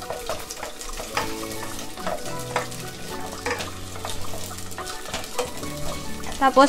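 Carrot sticks sizzling in hot oil in a nonstick pot as they are sautéed, with a spoon stirring them and knocking and scraping against the pot in irregular strokes.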